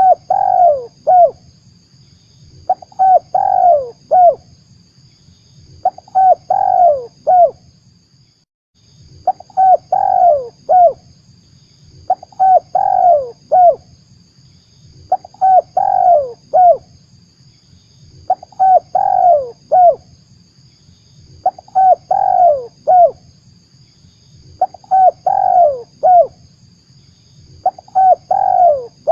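Spotted dove (tekukur) cooing, the same short phrase of several coos repeated about every three seconds, about ten times: a lure call used to draw wild doves for trapping.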